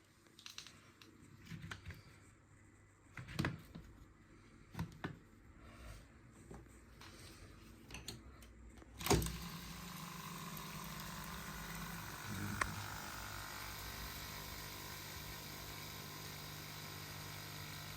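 Scattered handling clicks, then a click about nine seconds in as a dishwasher circulation pump, plugged straight into the mains, starts running with a steady hum. The pump runs freely, working fine after its impeller was cleaned.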